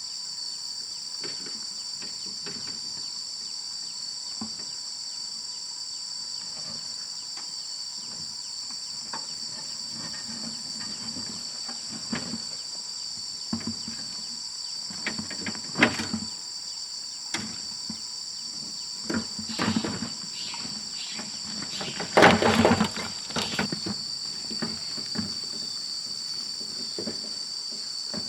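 Steady, high-pitched chorus of insects, with scattered knocks and scrapes over it; a single sharp knock comes a little past halfway, and the loudest stretch, a quick cluster of knocks, comes about three-quarters through.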